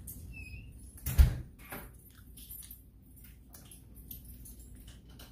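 Close-miked eating with the fingers: wet smacking and small chewing clicks as she chews meat, with one loud thump about a second in.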